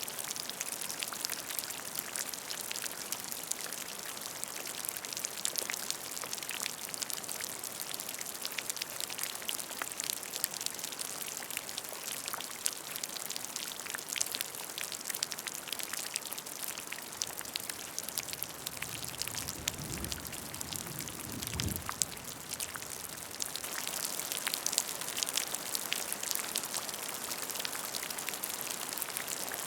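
Steady rain falling on a puddle: a dense patter of individual drops splashing into water. A couple of soft low thumps come about two-thirds of the way through.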